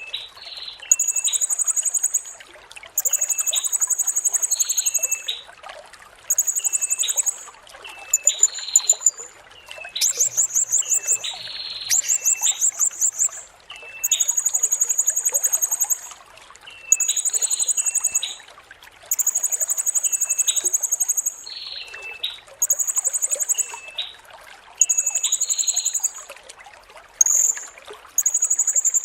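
Blue-crowned hanging parrot (serindit) singing a string of very high, shrill trilled phrases, each about a second long and repeated every couple of seconds, with shorter lower notes between them, over a steady trickle of running water.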